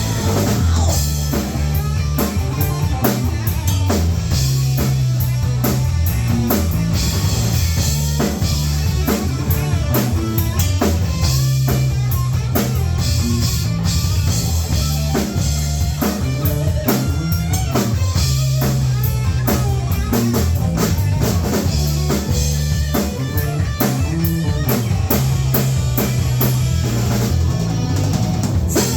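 Live rock band playing an instrumental passage with no vocals: drum kit beating steadily under guitar and a sustained bass line.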